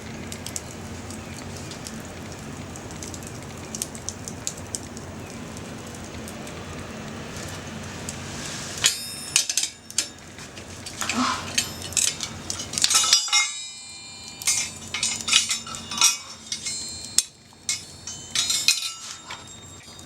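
Metal clinking and clattering: thin steel parts of a compact fire grill or metal cooking utensils knocked and handled, in irregular clusters of sharp, ringing clinks starting about halfway through, after a stretch of steady low background noise with a few faint clicks.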